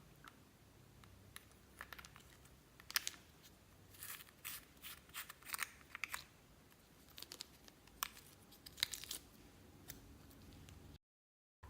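Slime being kneaded and pressed, giving irregular sticky clicks, pops and crackles, loudest in a cluster through the middle. The sound cuts out briefly near the end.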